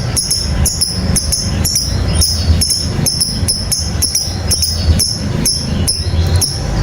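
Lovebird singing 'ngekek': a long unbroken chatter of short, high, shrill chirps at about four a second, over a steady low hum.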